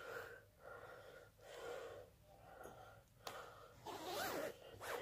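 Faint, quick breaths close to the phone's microphone, a soft puff every half second or so, a little louder near the end.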